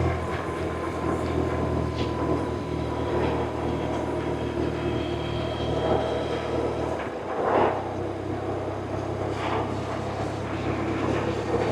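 BMW R1100RT's boxer-twin engine running under way, a steady low drone with road and wind noise over it. Its note changes about seven seconds in, with a brief louder rush at the same point.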